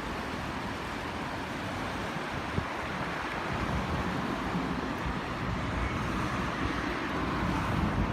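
Steady rushing of flowing water from a waterfall, with wind gusting on the microphone.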